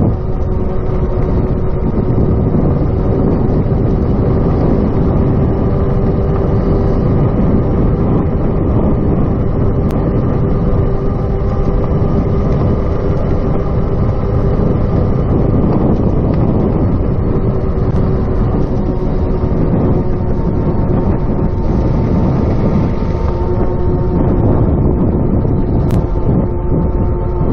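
Ride noise of a RadMini electric fat-tire bicycle: wind buffeting the chest-mounted microphone, over a steady hum from the moving bike.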